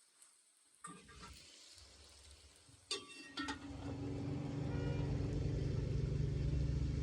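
A few clicks and knocks, then a motor starts about three and a half seconds in and runs with a steady hum.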